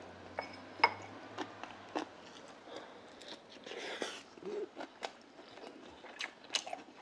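A person chewing grilled eel: close mouth and chewing sounds with a scatter of small sharp clicks, the sharpest just under a second in.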